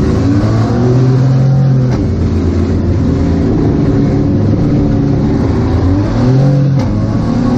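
Minivan demolition derby car's engine revving and pulling, heard from inside the stripped cabin, its pitch rising and falling with the throttle.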